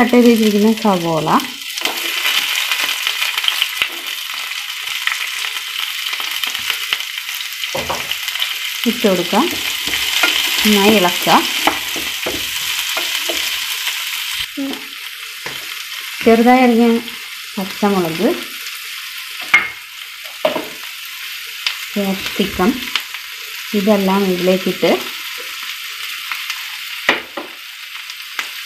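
Chopped onions, garlic and ginger sizzling in hot oil in a nonstick frying pan as they are stirred with a spatula. A steady frying hiss runs under a few louder, brief sounds.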